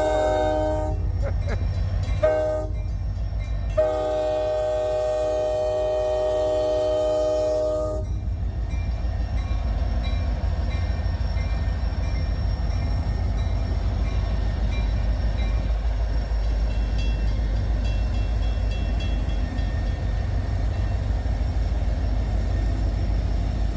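Diesel freight locomotive's multi-tone air horn: the end of one blast, a short blast, then a long blast that stops about eight seconds in. Then the locomotive's engine and the train rumble steadily as it pulls away.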